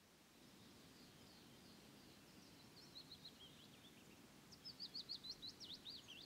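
Faint songbird calls: quick high chirps that build into a rapid run of rising and falling notes about two-thirds of the way in, over a faint steady low background rumble.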